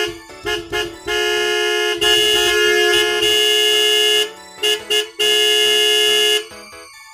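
Vehicle horn honking in a pattern of short toots and long held blasts, the longest lasting about three seconds, over a light musical beat.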